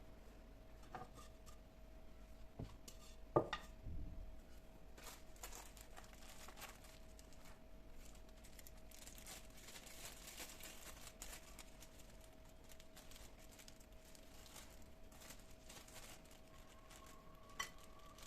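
Quiet kitchen handling sounds: scattered light clicks and rustling, with one sharp knock about three seconds in, over a faint steady hum.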